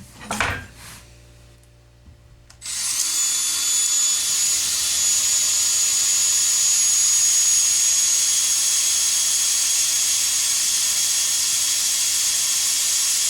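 A small electric power tool spins up with a short rising whine about two and a half seconds in, then runs steadily at high speed with a loud, high-pitched whine. A brief knock comes just before it starts.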